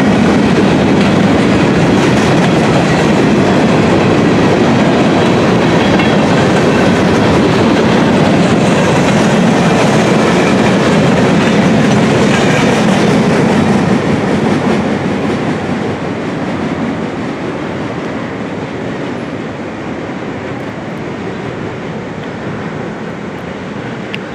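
Freight train of gondola cars rolling past, with a steady noise of steel wheels on the rails. About fourteen seconds in the last car goes by and the sound falls away as the train moves off.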